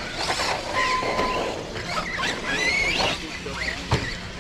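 Radio-controlled off-road cars running on a dirt track, several motor whines rising and falling in pitch as they accelerate and slow. A short steady beep sounds about a second in, and a sharp knock comes near the end.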